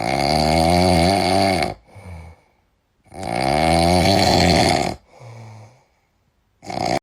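Loud snoring: two long snores about three seconds apart, each followed by a shorter, quieter breath.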